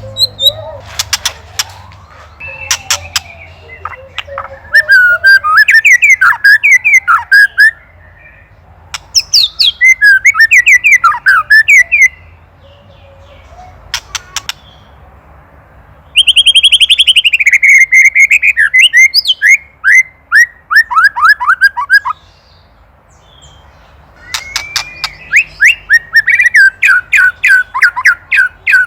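White-rumped shama (murai batu) giving rapid, harsh rattling 'ketrekan' calls, the agitated call it makes at a predator, in loud bursts of a few seconds with short pauses between and scattered sharp clicks early on.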